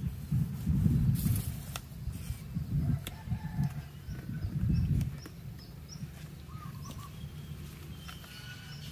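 Small birds chirping and calling faintly outdoors, over a low irregular rumble that fades out about five seconds in.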